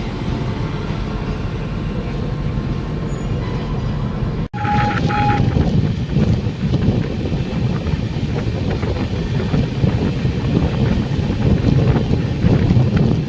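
Passing Indian Railways train: a steady rumble of wheels on rail. The sound drops out for an instant about four and a half seconds in, followed by a brief locomotive horn blast, then the rumble carries on.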